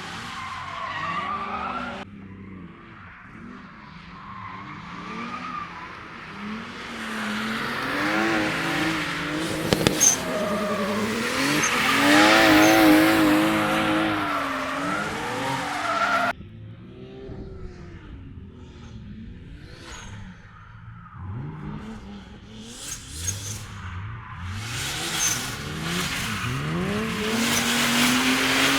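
Drift cars sliding past at full throttle: engines revving up and down hard, the pitch wobbling rapidly up and down at times, over the hiss and squeal of sliding tyres. The sound changes abruptly twice as one pass gives way to another.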